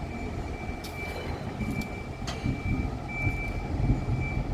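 A vehicle moving slowly while shunting trams: low rumble under a steady high-pitched warning tone, with two sharp clicks about one and two seconds in.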